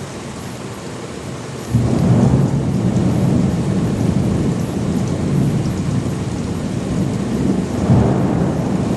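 Thunderstorm with rain falling steadily. About two seconds in, a clap of thunder breaks in suddenly and rolls on as a long, deep rumble. The rumble swells again near the end.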